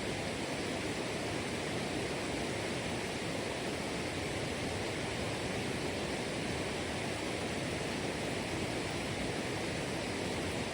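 Steady rushing of running water, an even roar with no surges or breaks.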